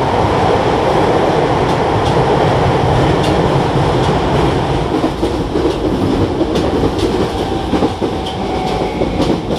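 Running noise inside a Sotetsu 10000 series electric train car with Mitsubishi IGBT inverter drive: the heavy rumble and roar of wheels on rail, loud in a tunnel, with scattered clacks from the track. It eases a little over the last couple of seconds.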